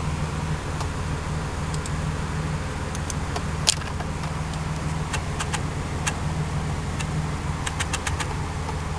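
Supercharged 3.8-litre V6 (GM 3800 L67) idling steadily, heard from inside the cabin through a muffler-delete exhaust. A few sharp clicks sound over it, the loudest about four seconds in.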